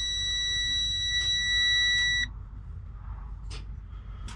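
Freightliner truck's dashboard warning buzzer sounding one steady high tone that cuts off suddenly about two seconds in, followed by a few faint clicks.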